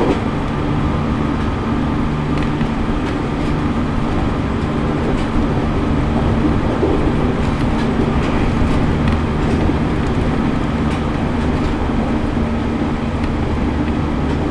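Interior running noise of a JR East E501 series electric train: a steady rumble of wheels and running gear with a level motor hum that holds one pitch, the train cruising at a constant speed. A few faint clicks sound through it.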